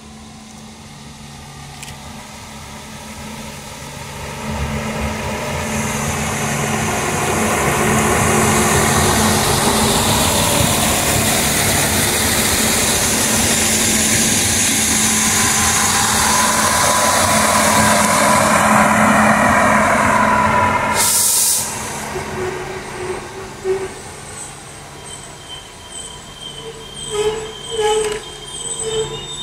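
Regional multiple-unit train running in along the platform, growing louder as it comes close and passes, with a whine that rises and falls, then a short sharp hiss of air about two-thirds of the way through. After that it is quieter, with another regional railcar approaching and a few short squeals.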